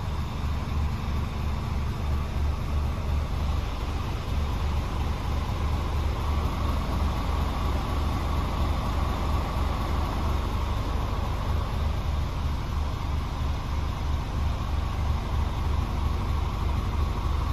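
Scania diesel engine idling steadily, with a faint steady whine joining about six seconds in.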